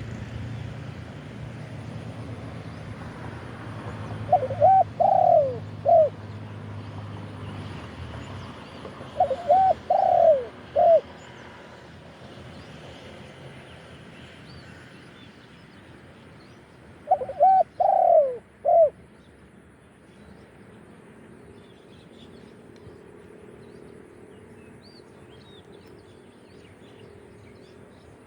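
Spotted dove cooing: three phrases of about four notes each, a few seconds apart. It is calling as a decoy to lure wild doves.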